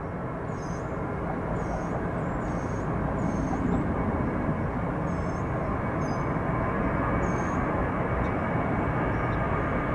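Jet airliner's engines as a steady rushing roar that grows slowly louder.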